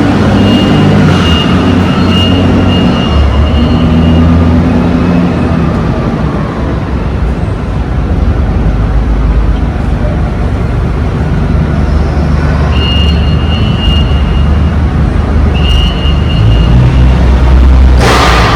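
Semi truck's diesel engine running, its low drone shifting in pitch, with a thin high tone coming and going three times and a short hiss near the end.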